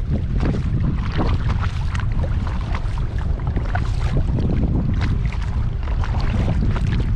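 Wind buffeting the microphone in a steady low rumble, over small splashes and drips of water from a kayak paddling across a lake.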